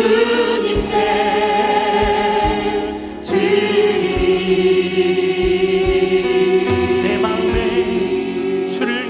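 Choir or congregation singing a Korean hymn with accompaniment, in long held notes with vibrato and a short break for breath about three seconds in.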